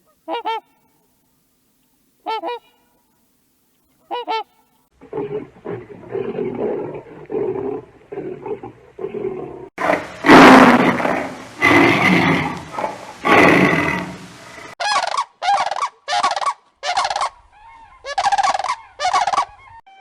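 Animal calls: three short calls, then many overlapping calls that grow loudest about halfway through, then a run of short separate calls.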